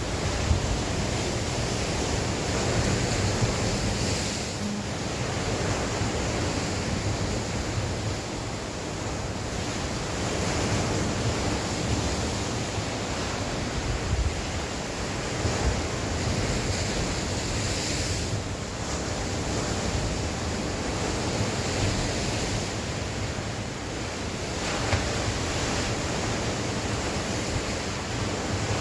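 Sea waves breaking and washing on the shore in a steady wash that swells and eases every few seconds, with wind blowing over the microphone as a low rumble.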